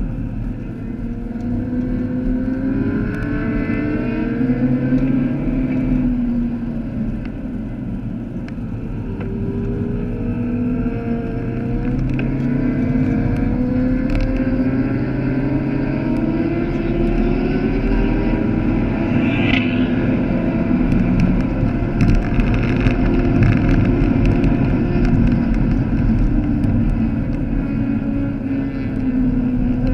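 Vauxhall Astra VXR's turbocharged four-cylinder engine heard from inside the cabin, climbing in pitch under acceleration and dropping back between gears, several times over. Steady road and wind noise lies beneath it.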